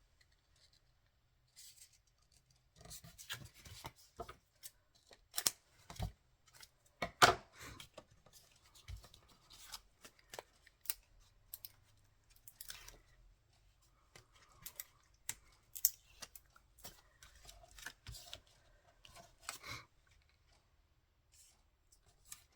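Paper and cardstock being cut and handled at a craft desk: scattered short clicks, snips and rustles, the loudest about seven seconds in.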